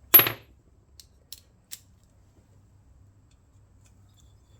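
A sharp metallic clink with a brief high ring just after the start, followed by three faint light clicks over the next second or so: a metal tool or small engine part being set down or knocked against metal.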